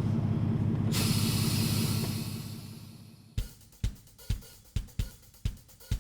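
Heavy truck engine rumbling low and steady, a hiss joining about a second in, the whole fading out by about three seconds. Then background music with a steady drum beat, about two beats a second.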